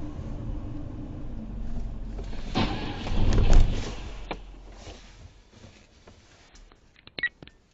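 Car driving, a steady low rumble that swells into a loud rushing noise about three seconds in, then fades. A few sharp clicks come near the end.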